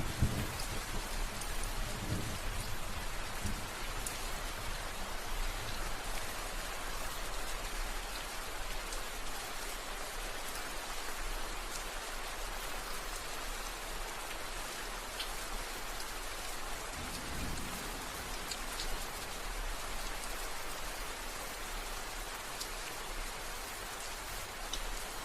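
Steady heavy rain falling on a surface, an even hiss of countless drops with a few distinct drips. Low rumbles of distant thunder come in the first few seconds and again about two-thirds of the way through.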